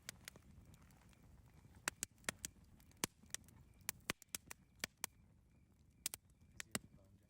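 Campfire crackling: irregular sharp pops and snaps, sometimes several in quick succession, over a low rumble of the burning fire.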